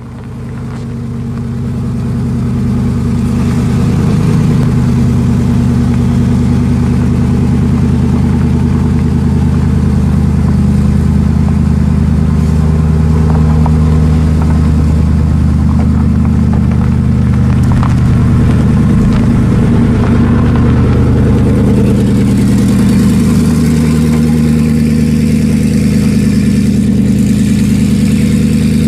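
Koenigsegg Regera's twin-turbo V8 running at a steady low idle while the car rolls slowly, with no hard revving. The sound fades in over the first few seconds.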